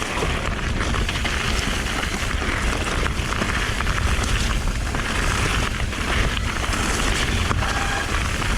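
Mountain bike riding fast over a rocky trail: a steady low rumble of wind and tyres on the camera microphone, with many small clicks and rattles from the bike.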